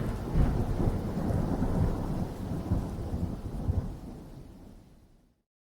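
Thunder rumble sound effect, a low rolling rumble with a rain-like hiss, fading out over about five seconds.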